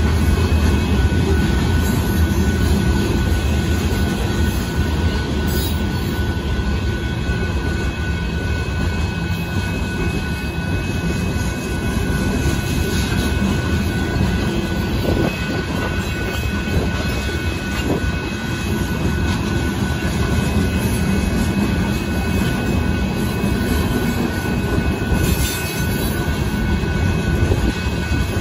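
Union Pacific sand train's covered hopper cars rolling past at a grade crossing: a steady rumble of steel wheels on the rails, with a faint steady whine above it.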